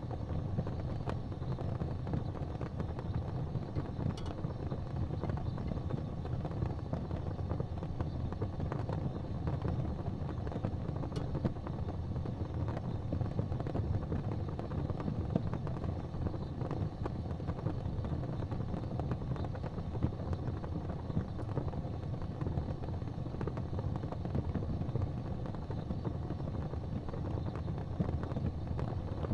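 Wood fire burning in a fireplace: a steady low rumble of the flames with a few faint crackles.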